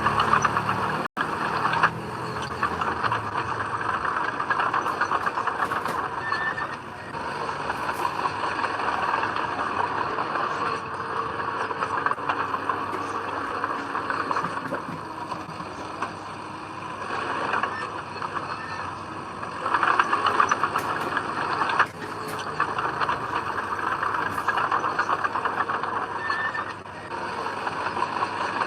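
Heavy earth-moving machinery running with a continuous dense clatter, swelling louder a few times.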